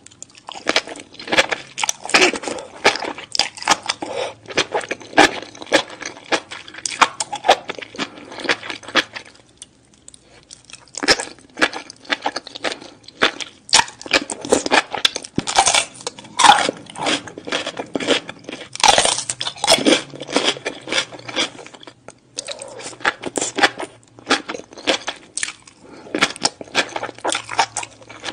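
Close-miked chewing of spicy enoki mushrooms, a dense run of wet, crunchy clicks and crackles. It pauses briefly twice, about ten seconds in and again a little past twenty seconds.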